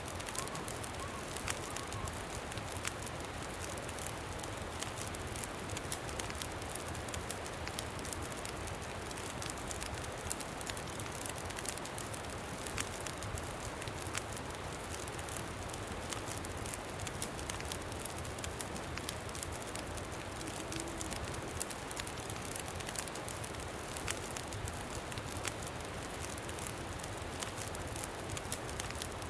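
Campfire crackling with frequent small pops, over a steady low rush of wind.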